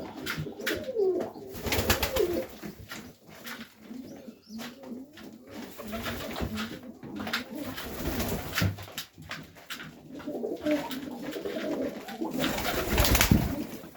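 Domestic highflyer pigeons cooing in a loft, with scattered clicks and knocks of birds moving about. About twelve seconds in comes a loud rush of noise lasting roughly a second, the loudest sound in the stretch.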